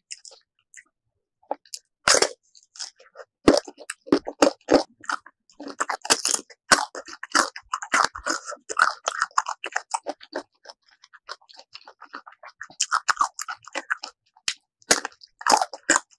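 Biting into and chewing sour mango (mamuang bao), with many sharp crunches in quick succession. Nearly quiet for about the first two seconds, then a loud bite and steady crunching.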